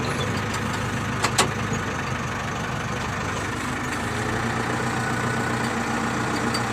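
Diesel engine of heavy loading machinery running steadily at idle, with two short sharp knocks close together just over a second in.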